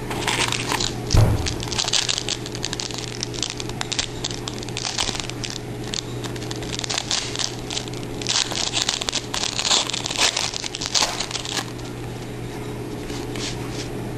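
Crinkling and rustling of a trading card pack's wrapper as the cards are handled, a run of small crackles that dies down near the end, with a thump about a second in.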